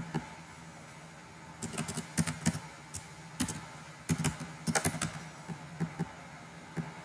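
Computer keyboard typing in two short irregular runs of keystrokes, with a few single clicks between, over a faint steady hum.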